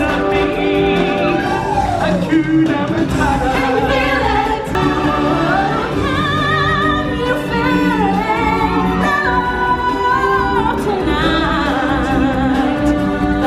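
Stage-show music: singers with wide vibrato and a choir over orchestral backing, holding and gliding between long notes.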